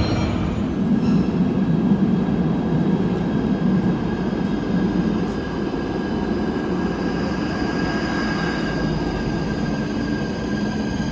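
Train running on the rails: a steady loud rumble with a thin, high wheel squeal held on one pitch through the second half.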